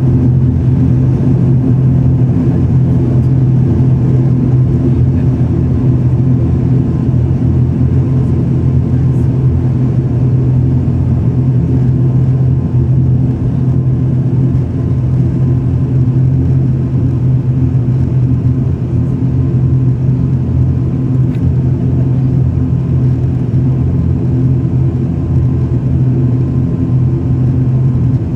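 ATR 72 turboprop engines and propellers running, a steady, unchanging drone with a strong low hum and a stack of even overtones above it.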